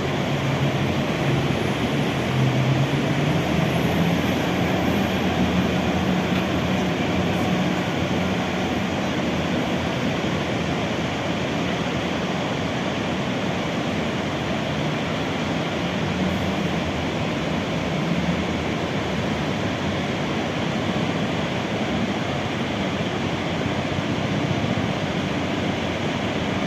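Steady roar of the Iguazu Falls waterfalls, a loud unbroken rush of falling water.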